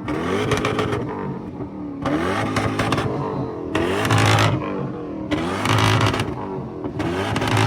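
Car engine revving hard over and over, its pitch climbing about every two seconds, each climb ending in a loud, harsh burst of noise.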